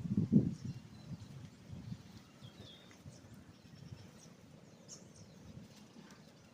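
Faint outdoor background with scattered short bird chirps, and low rustling handling noise in the first second.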